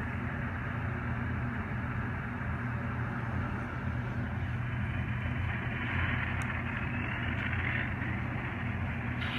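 Digital sound of an N scale GE Tier 4 GEVO model locomotive: its diesel prime mover idling steadily after start-up, with a hiss that swells and fades around the middle.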